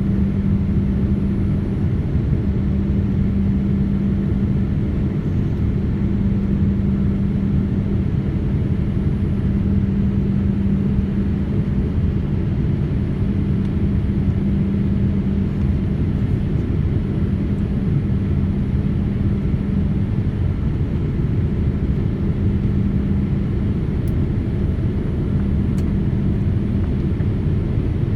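Steady cabin noise inside an airliner on the ground before takeoff, with the engines at idle: an even rumble with a constant low hum that neither rises nor falls.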